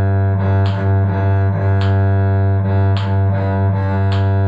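Cello bowing a sustained low G over and over in a bowing study, with a fresh bow stroke attack about once a second.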